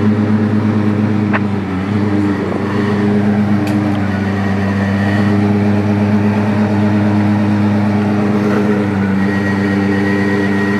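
Car engine idling steadily: an even, unchanging low hum with no revving. There is a faint click about a second and a half in.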